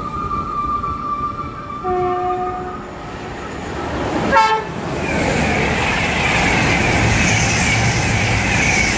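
A train horn sounding one short, steady note, then a brief loud blast about four and a half seconds in, followed by an express train passing through the station at speed with a loud, steady rush of wheel and air noise.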